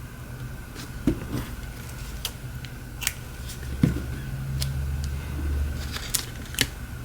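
Scissors snipping and small sharp clicks as strips of adhesive tape are cut and handled, a few ticks scattered through, over a steady faint high-pitched hum. A low rumble comes in for a couple of seconds in the middle.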